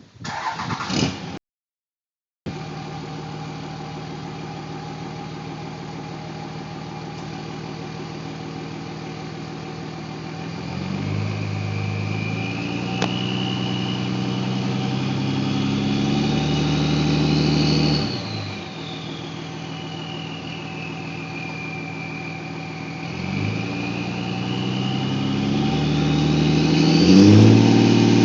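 2003 Dodge Cummins 5.9 L inline-six turbodiesel with an Industrial Injection Phatshaft 62 turbo idling, then revved twice. The turbo whistle climbs in pitch as the revs build and falls slowly as the engine drops back to idle, heard through a large Donaldson muffler.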